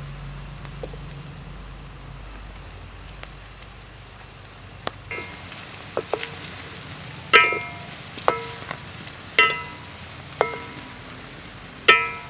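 Silkworms deep-frying in oil in a metal wok, with a steady sizzle. Over the second half a metal spatula stirs them and strikes the wok, giving seven sharp, ringing metal clanks about a second apart.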